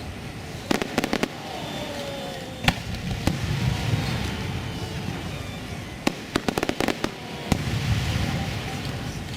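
Fireworks going off in a display: clusters of sharp bangs and crackles, about a second in, near three seconds and again around six to seven and a half seconds, over a low rumble.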